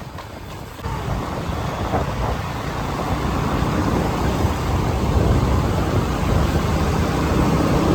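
Steady vehicle rumble and hiss, louder from about a second in.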